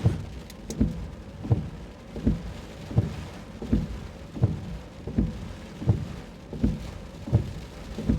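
Windshield wipers sweeping in steady rhythm, a low thump about every three-quarters of a second, over rain and road noise inside a moving vehicle.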